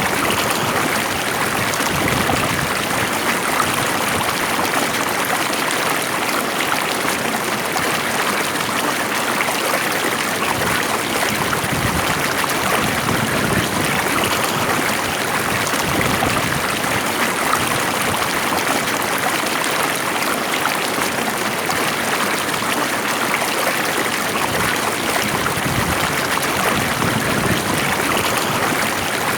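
Stream water flowing steadily over its bed, a constant even rushing and gurgling.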